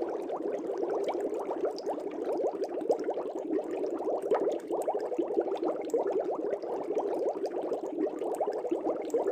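Steady, dense bubbling of air bubbles rising through the water of an aquarium, a continuous stream of many small bubbles.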